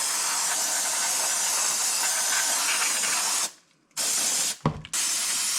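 Loud pressurized spray hissing in long bursts, used to clean old fuel that has turned to a congealed gel. The spray cuts out for about half a second past the midpoint, then again briefly with a low thump, and starts again.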